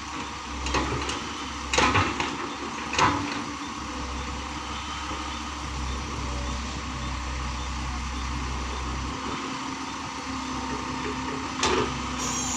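Heavy diesel machinery running steadily with a low rumble, with a few sharp clanks about one, two and three seconds in and once more near the end.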